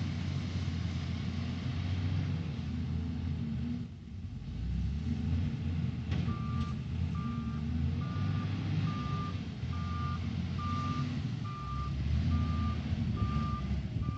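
Heavy diesel engine of an SDLG LG958L wheel loader running and working under load, easing off briefly about four seconds in. From about six seconds in a reversing alarm beeps steadily, about one beep a second.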